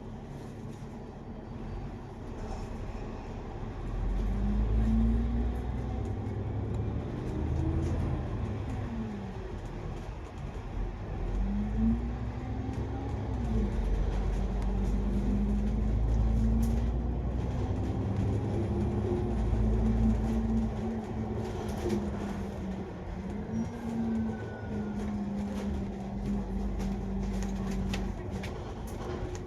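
Double-decker bus engine and drivetrain heard from inside the bus over a low rumble. The pitch rises several times and drops back each time, as the bus pulls away and shifts through its gears, then holds steady while it cruises.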